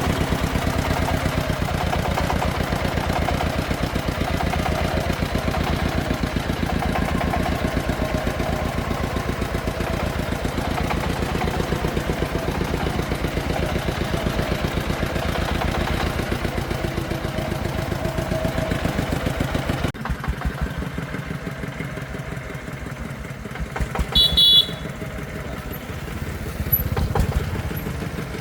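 Single-cylinder diesel engine of a công nông farm truck running with a steady, rapid chugging. About two-thirds of the way in the sound drops suddenly to a quieter chugging, and a few seconds later a brief high-pitched beep sounds.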